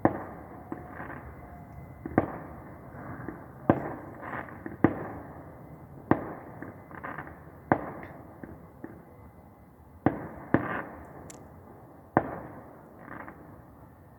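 Fireworks going off: a run of sharp bangs at irregular intervals of about a second, each trailing off briefly, with a short lull in the middle.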